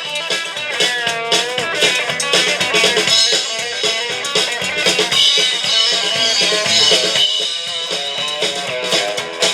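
Live country band playing an instrumental break: an electric guitar leads with bending notes over drums and bass.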